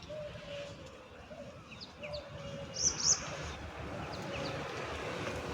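Small birds chirping in short, rising high calls, with two loud sharp calls close together about three seconds in, over a steady low background rumble.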